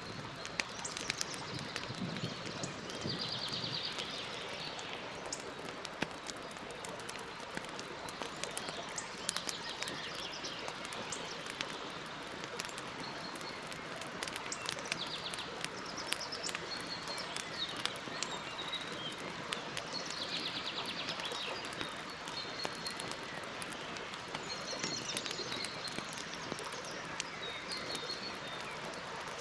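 Campfire crackling, many small sharp pops over a steady hiss, while a bird calls with a short high trill about every five seconds.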